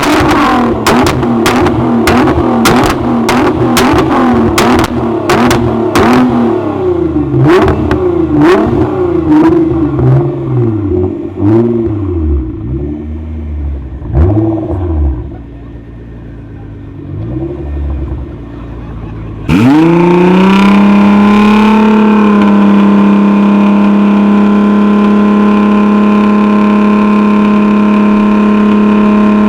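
Tuned car engine revved again and again, each blip rising and falling, with loud exhaust pops and crackles on the overrun. It then settles quieter for a few seconds. Near the end an engine is revved up sharply and held at steady high revs.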